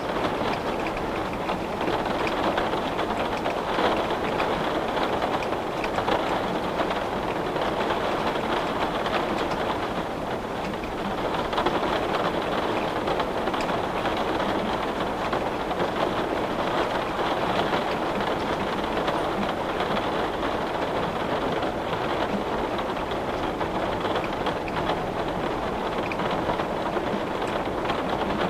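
Steady rain falling on a window: a dense, even wash of drops with gentle swells in strength and no distinct single hits.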